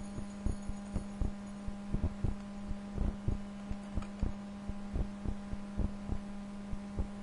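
Computer mouse clicking repeatedly at an irregular pace, about two or three clicks a second, over a steady electrical hum.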